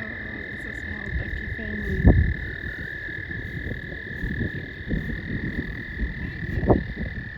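Chorus of frogs calling together as one steady, unbroken high trill. Low thumps and rumbles sound underneath, loudest about two seconds in and again near the end.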